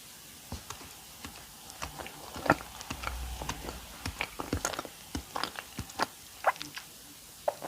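Close-miked chewing of a custard-filled doughnut: a run of irregular mouth clicks and smacks, the sharpest about two and a half seconds in.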